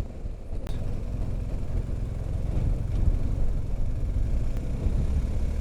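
Motorcycle running on the move: a steady low engine and wind rumble.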